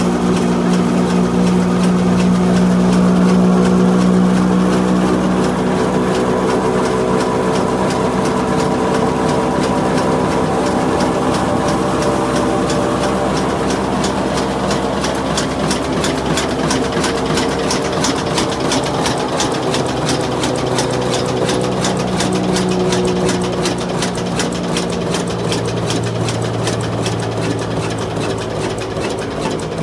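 Old diesel engine running, a steady hum at first, then a sharp, even knocking beat that grows faster as the engine gathers speed.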